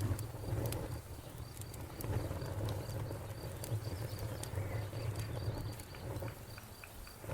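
Wood fire burning in a fireplace: a low rolling rumble of the flames that swells and eases, with a few sharp crackles from the burning wood. A faint high pip repeats several times a second underneath.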